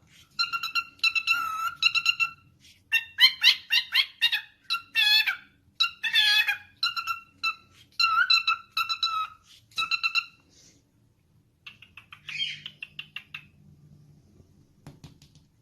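Pet parrot calling: a quick series of short, high, repeated calls, with wavering chatter in the middle that trails off into fainter calls near the end.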